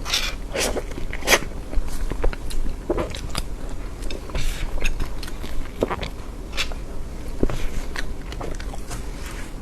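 Close-miked eating of soft cream cake: irregular wet mouth clicks and smacks from biting and chewing, a few to several per second.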